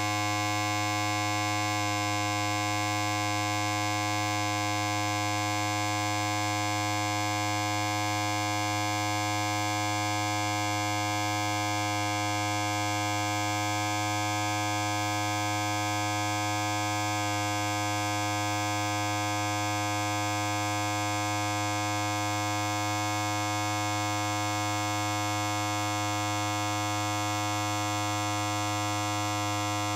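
Electric hair clipper running continuously with a steady low buzz rich in overtones, its tone shifting slightly about two seconds in and again a little past the middle.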